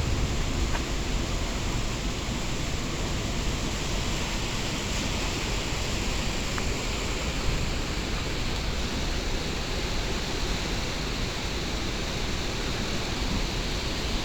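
Steady rushing noise of river water and wind, even throughout, with a couple of faint clicks.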